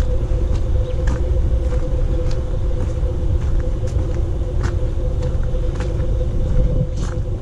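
Footsteps at a walking pace, short crunchy ticks about one or two a second, over a loud steady low rumble with a faint even hum.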